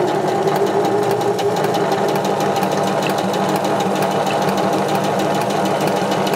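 Electric sewing machine running steadily at speed, its needle stitching in rapid even strokes over a constant motor hum, sewing a long basting-stitch line.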